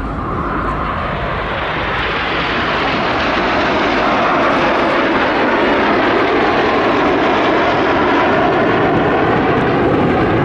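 BAE Hawk T1 jets of the Red Arrows flying past, their turbofan noise growing louder over the first few seconds and then holding steady and loud as the two groups of jets cross overhead.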